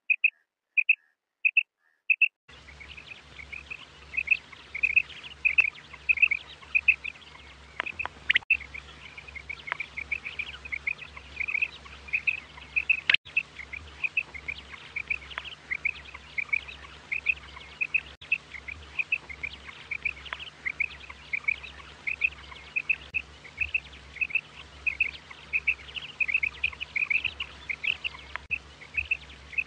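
Female quail calling: short chirping notes repeated about twice a second without pause. From about two seconds in a steady low hum and hiss lie under the calls, with a couple of sharp clicks.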